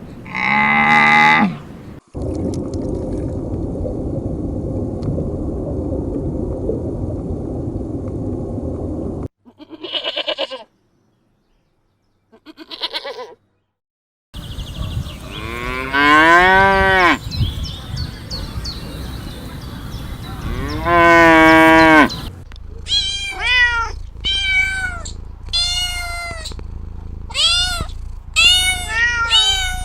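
A string of different animal calls in succession. A short call comes first, then a noisy stretch and two brief calls. It ends with two long rising-then-falling meows and a rapid run of about eight short meows, typical of a cat or kitten.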